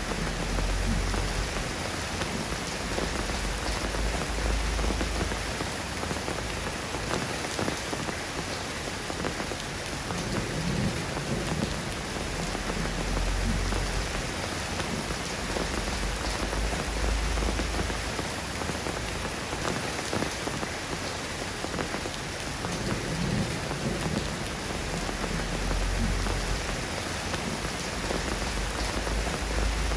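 Steady soft rain falling on a surface, a dense even patter. A deep low rumble of distant thunder swells and fades about three times.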